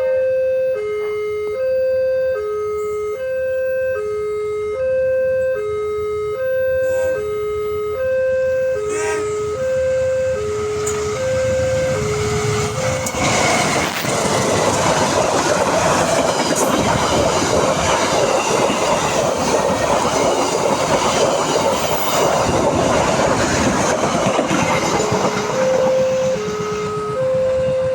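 A level-crossing warning signal sounds two alternating notes, high and low, about one a second. About 13 seconds in, a train rushes past at speed, and its loud wheel-and-rail noise drowns the signal for around twelve seconds. The two-note warning then comes back through.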